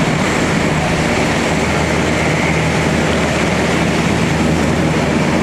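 Helicopter engine and rotor running with a loud, steady noise.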